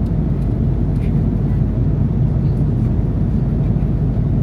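Steady cabin noise of an Airbus A330-300 airliner in flight: an unbroken low rush of airflow and engine drone.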